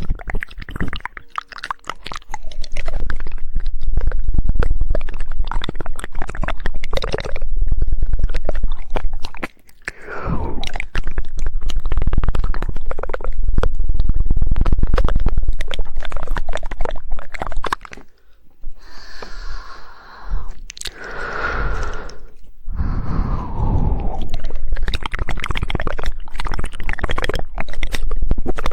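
Rapid, dense 'woodpecker' tongue clicking and wet mouth sounds made right against the microphone, in long runs with brief pauses about ten and eighteen seconds in.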